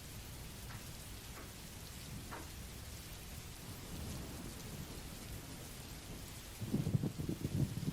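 Steady rain and white-noise hiss, with a few faint drips early on and a low rumble of thunder coming in near the end, louder than the rain.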